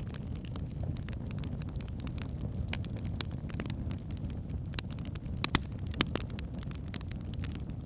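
Wood logs burning in a fireplace: a steady low rumble of the flames with frequent sharp crackles and pops, two louder pops a little past the middle.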